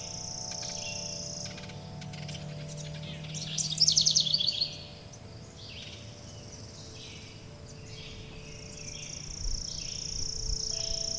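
Wild birds chirping and singing, with a loud rapid trill of repeated notes about three to four seconds in. Wind chimes ring underneath in long, steady tones.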